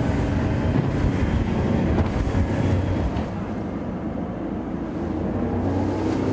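Steady low engine rumble of vessels at sea, with wind buffeting the microphone.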